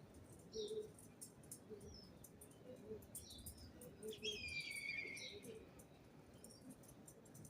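Birds calling faintly: scattered short high chirps, the loudest a longer chattering call about four to five seconds in, with soft short low notes repeating underneath.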